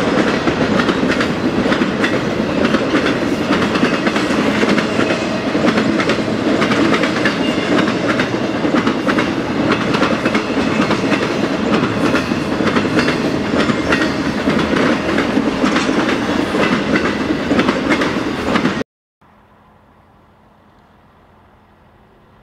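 Intermodal freight train cars rolling past: a loud, steady rumble of steel wheels on rail with rapid clickety-clack over the rail joints. A few seconds before the end it cuts off abruptly to a much quieter steady background.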